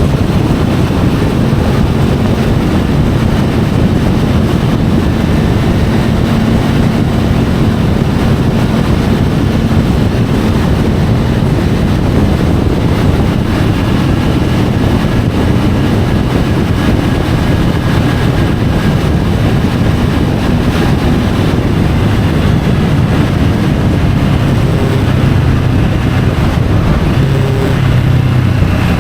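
Triumph Tiger 850 Sport's inline three-cylinder engine running under way, its note shifting a little, with wind rushing over the bike-mounted camera's microphone.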